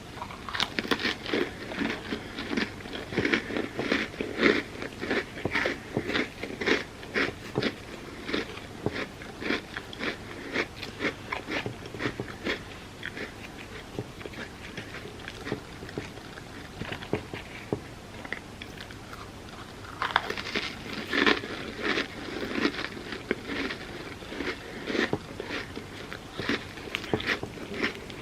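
Close-up eating sounds: a person biting and chewing crunchy pieces of a Biscoff cookie-butter sundae, in dense runs of crackly crunches. The crunching eases off about halfway through and picks up again with a fresh bite about two-thirds of the way in.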